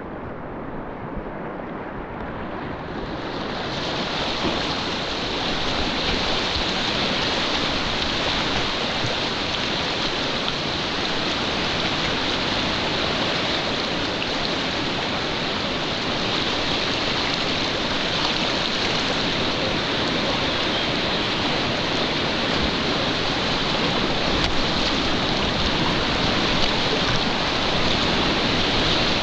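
Rushing whitewater of a mountain river: steady rapids noise that swells over the first few seconds and then holds loud and even.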